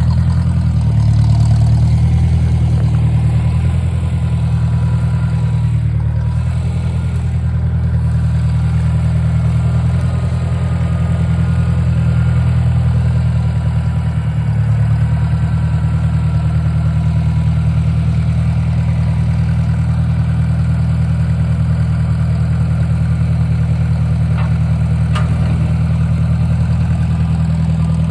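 1953 Ford Jubilee tractor's four-cylinder gasoline engine running steadily at a low, even speed.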